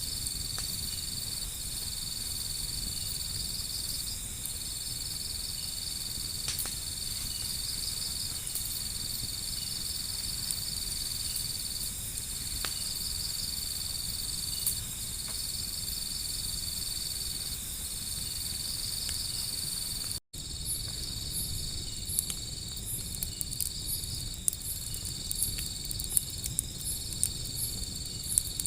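Crickets trilling steadily, a high continuous trill that breaks off briefly every second or two, with scattered sharp crackling pops from a wood fire. The sound drops out for an instant about twenty seconds in, and the pops come more often after that.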